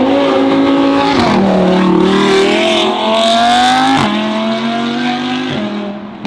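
High-performance car engine accelerating hard, revving up through the gears with upshifts about a second in and about four seconds in, then fading away.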